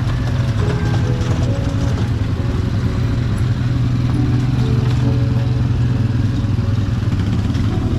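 Quad bike engine running steadily, with background music playing over it.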